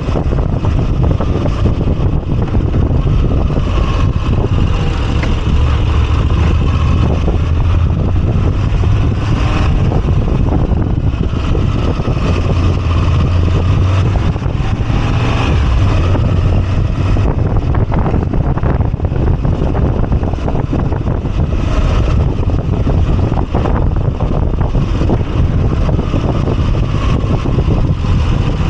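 Moto Guzzi V85TT's air-cooled transverse V-twin engine running under way, a steady low throb that swells twice, about a quarter and half way through.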